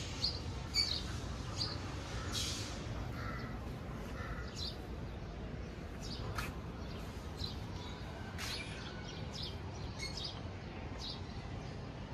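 Small birds chirping: short, high chirps scattered every second or so over a steady low background noise.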